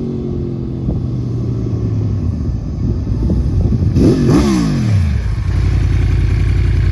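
Superbike engine through an Akrapovic slip-on exhaust, running steadily, then rising and falling sharply in pitch about four seconds in, and settling into a steady low-pitched run.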